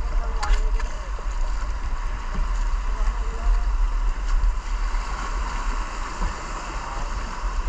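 Rushing white water of river rapids, a steady hiss with a low rumble underneath; a brief sharp knock about half a second in.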